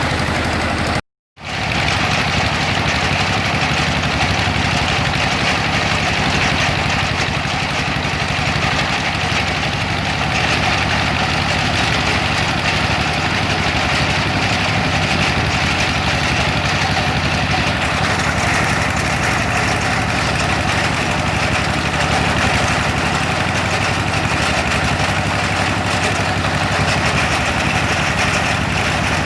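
Homemade water-well drilling rig's motor-driven machinery running steadily: a constant mechanical drone with an unchanging pitch. The sound cuts out completely for a moment about a second in, then resumes unchanged.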